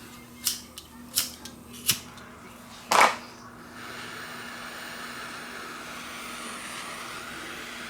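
A lighter clicked four times, about two strikes a second, catching on the fourth, loudest strike. A flame then burns with a steady hiss, heating old solder to melt it off a fitting.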